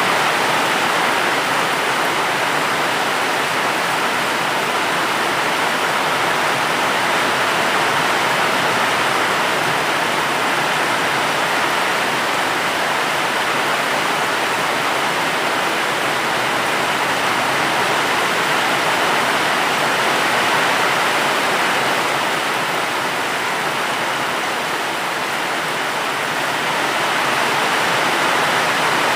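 Steady, even rain, a dense hiss of falling water with no separate drops or thunder standing out.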